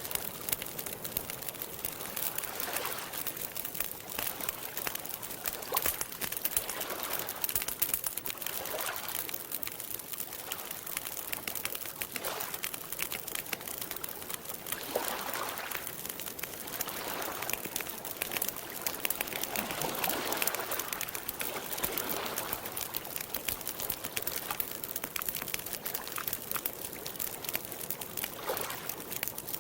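Campfire crackling steadily in dense small pops, with soft washes of lake water lapping every few seconds.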